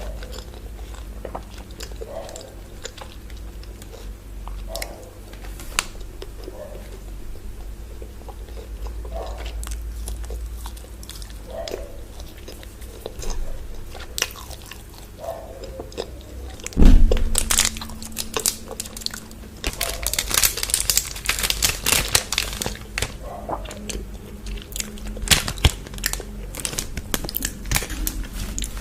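Close-miked chewing and crunching of chocolate bars, with wet mouth sounds between bites. About halfway through comes one loud thump, followed by several seconds of dense, crisp crunching.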